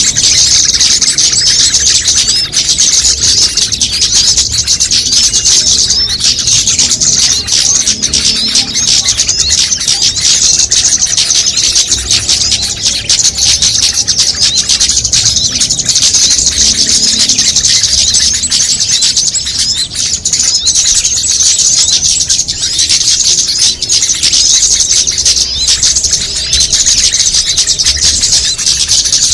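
Bird-lure (pikat) track: a dense, nonstop mix of many small songbirds' rapid high chirps and trills layered together, a sound played to draw small birds in.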